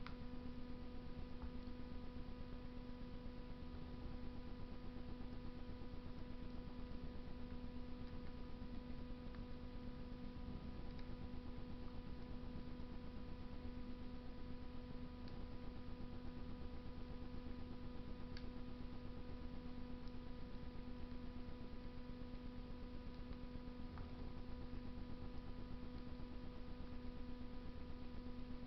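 Wood fire burning in a Russian masonry stove: a low steady rumble with a few faint, scattered crackles, under a constant electrical hum.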